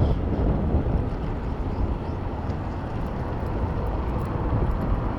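A steady rumble from riding a bicycle through city traffic: wind on the microphone with motor traffic around, strongest in the low end and uneven from moment to moment.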